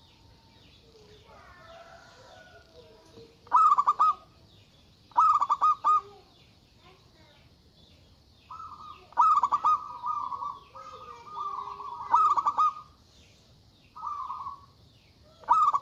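Zebra dove (perkutut) singing: repeated phrases of rapid, stuttering coo notes every couple of seconds, some phrases drawn out longer. A faint high chirping runs underneath.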